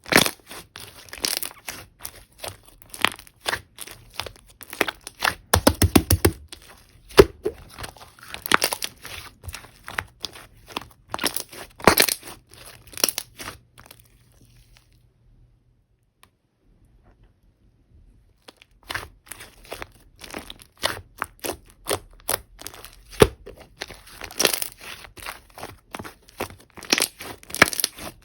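Slime being squished and stretched by hand: fast, irregular crackling pops and clicks. The sounds stop for about four seconds halfway through, then start again.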